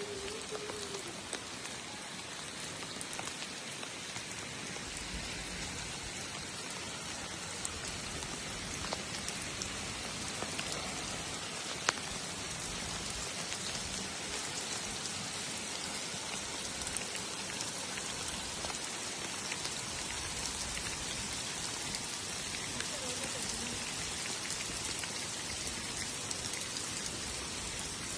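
Steady rain falling, with scattered drops ticking on a surface and one sharper drop about twelve seconds in.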